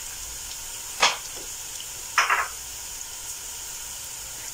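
Diced carrots and onions sizzling steadily in oil in a frying pan, with two short scrapes of a wooden spoon against the pan about one and two seconds in.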